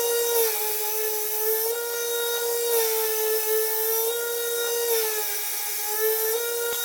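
Electric grinder running on steel, its motor whine dipping in pitch three times as the work is pressed into it and then recovering, with a gritty grinding hiss.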